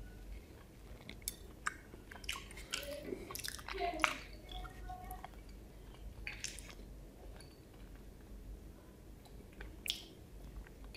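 Close-miked wet mouth sounds of a last mouthful of rice and curry being chewed, with lip smacks and fingers being licked clean. They cluster in the first half and thin to a few clicks near the end.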